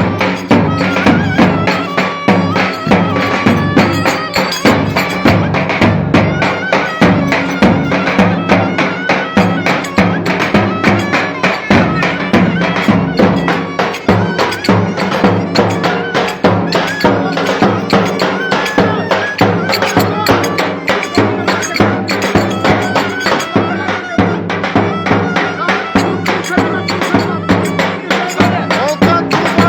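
Live Turkish folk dance music from a band, with a steady, quick beat of dense percussion strikes under a melody line.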